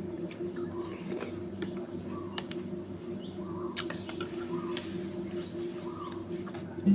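Eating noises: wet chewing and slurping of noodle soup with scattered sharp clicks of a spoon or chopsticks against a bowl, over a steady low hum. A short louder knock comes right at the end.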